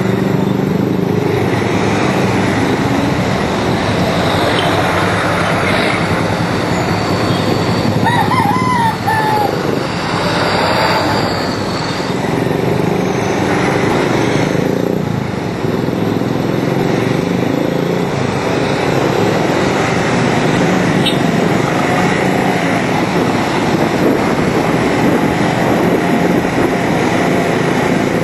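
Single-cylinder 200cc Bajaj Pulsar motorcycle engine running steadily under way, heard onboard mixed with wind and road noise. A short wavering high call cuts through about eight seconds in.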